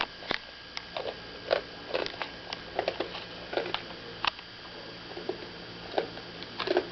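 A child chewing a crunchy honey roasted peanut granola nut cluster: irregular crisp crunches, a few each second.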